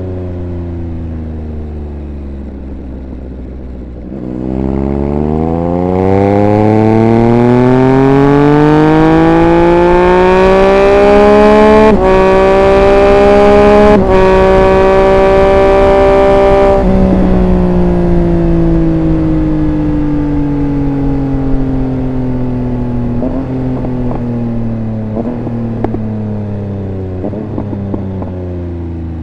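Triumph Speed Triple 1200 RR's inline three-cylinder engine under hard acceleration: after a few seconds of low running the throttle opens about four seconds in and the revs climb steeply, with two brief cuts in the climb, and wind rush grows with the speed. Then the throttle closes and the revs fall slowly, with exhaust crackles on the overrun near the end.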